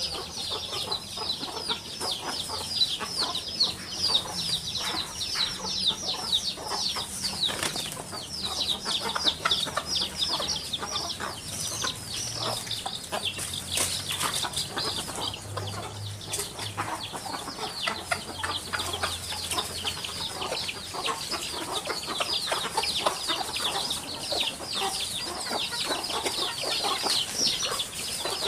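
Many small birds chirping together, a dense and continuous chatter of quick high chirps.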